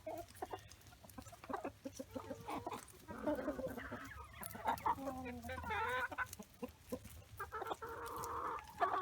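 Backyard hens clucking and calling, with a run of wavering calls around the middle and a longer call near the end.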